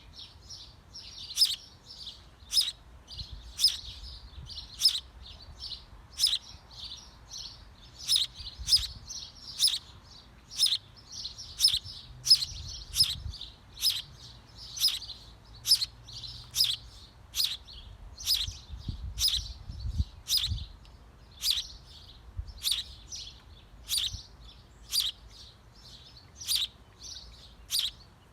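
Small bird chirping over and over, sharp high chirps a little more than once a second, with a fainter high twittering between them.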